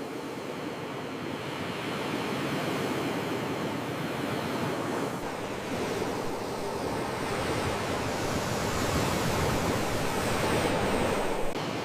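Sea waves washing in, a steady rushing that swells slowly and grows louder toward the end, then changes abruptly just before the end.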